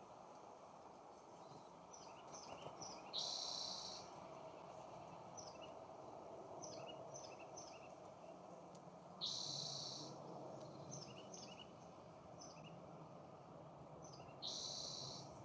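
A songbird singing a phrase of several short, quick chirped notes that ends in a loud harsh buzz, repeated three times about six seconds apart, over a steady low background hum.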